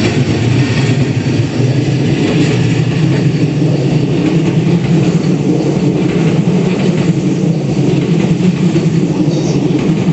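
Narita Express electric multiple-unit train pulling out of the station and running past, its wheels and motors making a steady, loud running noise.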